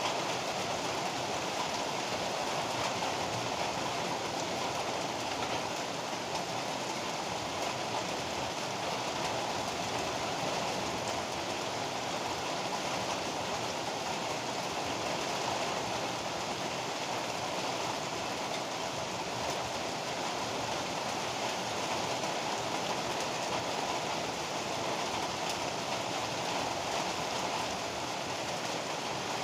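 Heavy rain pouring down steadily, an even, unbroken rushing hiss.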